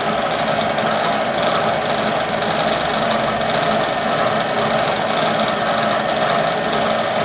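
Metalworking machine tool's motor and spindle running steadily, with a constant mid-pitched tone.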